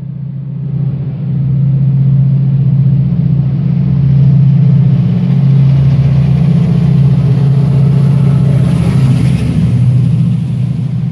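Class 68 diesel-electric locomotive's V16 engine running loud and steady as it passes, hauling Mark 3 coaches. It swells about a second in, holds for most of the time and fades at the end, with a brief high hiss near the end.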